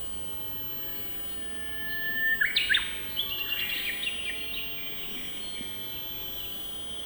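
Steady murmur of a mountain river with a songbird singing one phrase about two seconds in: a held whistle that breaks into a quick run of sharp, higher notes. A steady high-pitched tone runs underneath.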